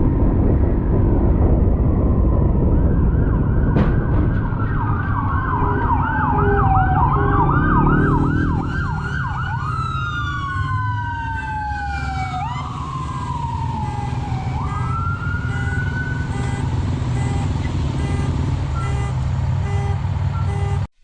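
An emergency vehicle siren, first in a fast yelp cycling up and down in pitch, then switching to slower long wail sweeps that fade out near the end, over a steady low rumble.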